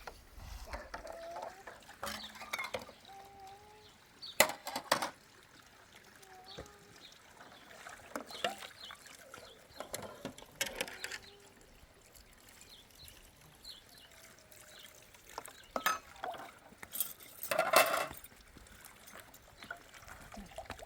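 Scattered clinks and knocks of dishes and glassware, the loudest about four seconds in and near the end, with a little liquid being poured and faint short voice-like sounds in the background.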